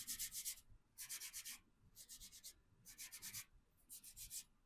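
Hand sanding of primer on a VW T25 van's steel body panel: five quick bursts of back-and-forth rubbing strokes, about one burst a second, each a rapid scratchy hiss.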